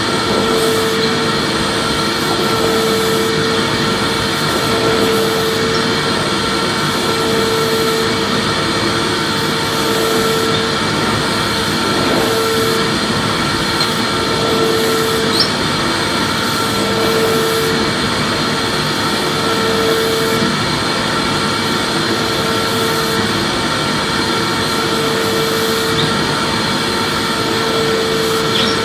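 Vacuum cleaner motor running steadily: a loud, even hiss with a few steady whining tones above it and a lower hum that swells and fades every two seconds or so.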